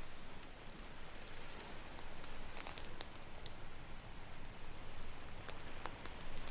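Campfire crackling: irregular sharp pops and snaps, clustered about two and a half seconds in and again near the end, over a steady wash of ocean waves.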